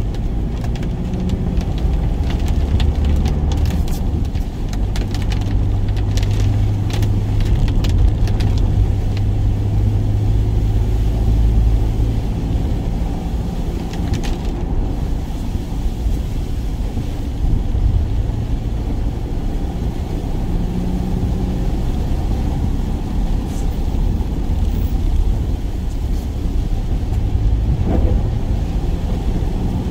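Work van driving, heard from inside the cab: a steady low engine and road rumble, with scattered faint ticks in the first several seconds.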